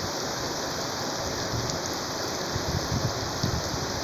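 Steady rain falling, an even hiss, with a few low thumps between about a second and a half and three and a half seconds in.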